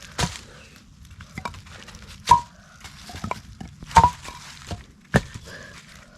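Several sharp clinks or knocks, about four, spaced a second or more apart, some with a short ring, over light handling and rustling.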